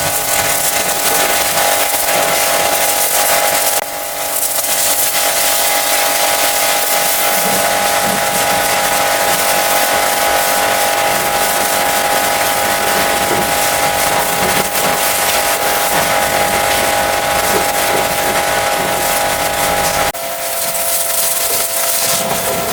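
High-pressure washer spraying: a loud, steady hiss of water jet with a steady whine from the pump motor. The whine drops briefly about four seconds in and shifts abruptly in pitch near the end.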